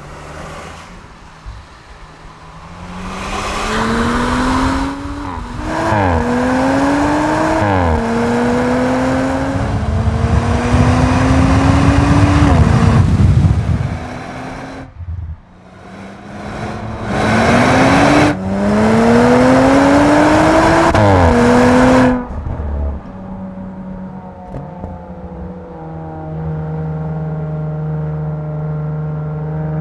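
Audi RS5 Sportback's twin-turbo V6 accelerating hard through the gears. The pitch climbs and drops sharply at each upshift, in two runs that each cut off suddenly, then it settles into a steady low drone near the end.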